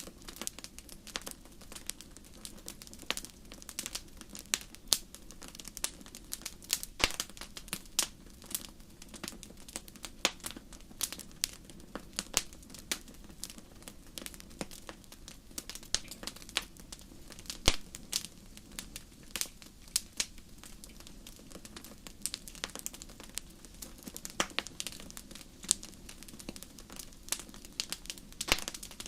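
Wood fire burning in a fireplace, crackling with irregular sharp pops and snaps, a few a second, over a low steady hiss; one louder pop a little past halfway.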